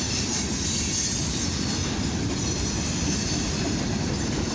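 Freight cars of a mixed freight and steel train rolling past at about 24 mph: a steady rumble of steel wheels on rail, with a faint high wheel squeal over it.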